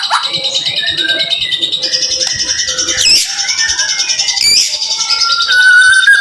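White-rumped shama (murai batu) singing a rapid, dense song of high trills and chirps, with two sharp sweeping notes in the middle and a long, slightly rising whistle near the end.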